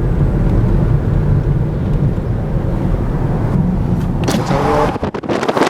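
Steady low rumble of a car's engine and tyres, heard from inside the moving car. Near the end the rumble cuts out and loud wind hiss on the microphone takes over.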